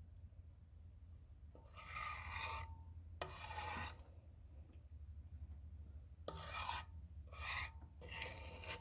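Brownie batter being scraped with a utensil: five rasping scraping strokes with short pauses between them, starting about one and a half seconds in.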